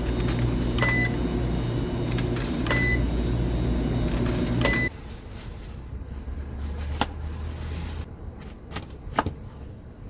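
A machine hums steadily with a short high beep about every two seconds, then cuts off abruptly about halfway through. A few sharp clicks follow.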